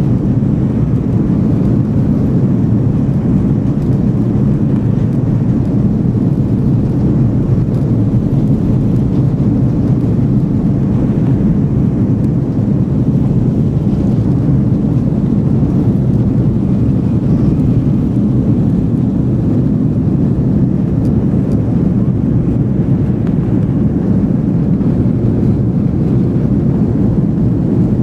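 Korean Air Airbus A330-300 jet engines during takeoff: a loud, steady low rumble that holds unchanged throughout.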